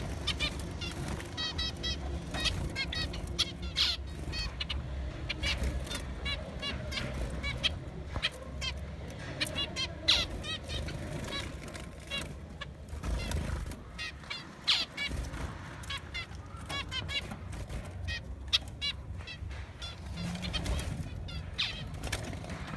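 Cage birds chirping: many short, high chirps and quick runs of repeated notes, over a steady low rumble.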